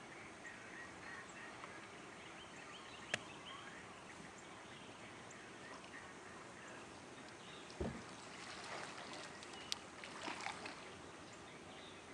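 Faint outdoor lake ambience heard from a kayak, with a sharp click about three seconds in, a dull thump about eight seconds in and another click shortly after.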